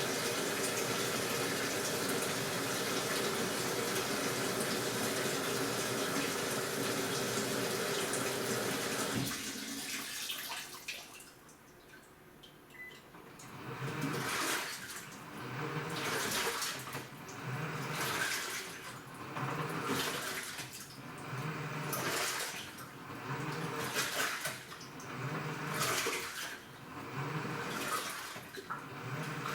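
AQUA washing machine filling its tub with water in a steady rush, which stops about nine seconds in. After a short lull the direct-drive inverter motor starts the wash, churning the water in rhythmic swishes about once every two seconds.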